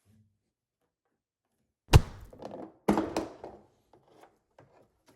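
Two loud thunks about a second apart, each followed by a short rattle, then a few faint knocks.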